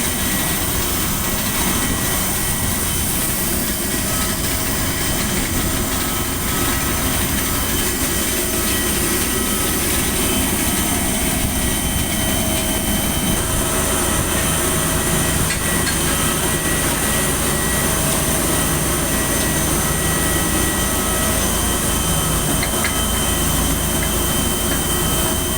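Jet airliner's engines running at the apron after landing: a steady roar with several high, steady whining tones over it.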